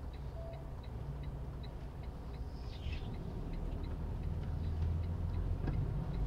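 Semi truck's diesel engine running, heard from inside the cab, growing louder as the truck pulls through a right turn. A light regular ticking, typical of the turn signal, runs over it.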